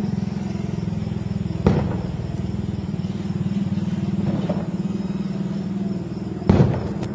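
Two aerial firework shells bursting with sharp bangs, about two seconds in and again near the end, each trailing off in a short echo. Under them runs the steady low drone of an engine.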